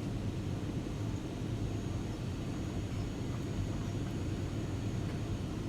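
Airliner cabin noise in flight: a steady low rumble of jet engines and airflow, with no change in level.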